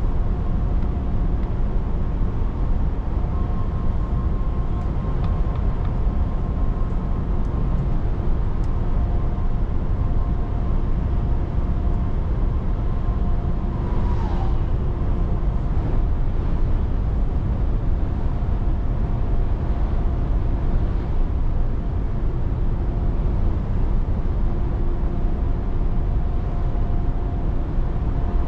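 Scania 500S truck under way at a steady speed: continuous low engine and road rumble with a faint steady whine, and a short falling tone about halfway through.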